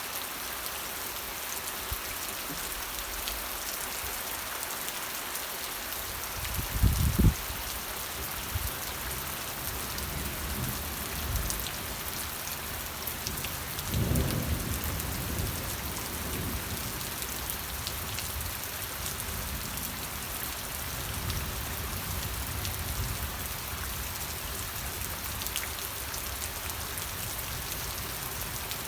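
Steady rain with thunder rumbling low beneath it: a short, loud rumble about seven seconds in, another about halfway through, and fainter rolls after.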